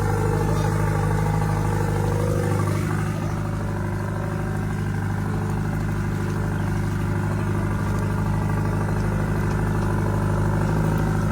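An engine running steadily at an even speed, holding one low pitch.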